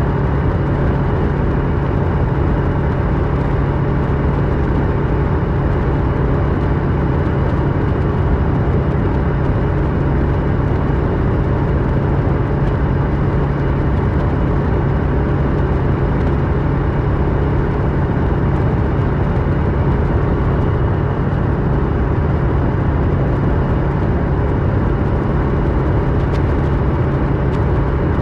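2008 Kawasaki Versys 650's parallel-twin engine running through a MIVV slip-on exhaust at a steady cruise, holding one pitch, over a steady rush of wind and road noise.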